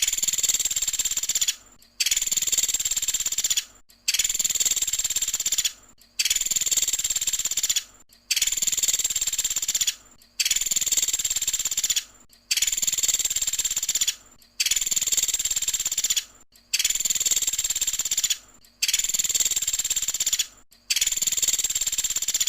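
Woodpecker's rapid, rattling call, the 'tembakan' burst prized by Indonesian bird keepers. It comes in high bursts under two seconds long, repeated about every two seconds at a machine-even pace, as a looped recording does.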